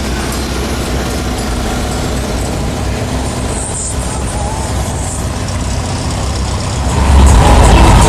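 Vehicle engines running in street traffic, a steady low rumble. About seven seconds in, a much louder engine close by takes over.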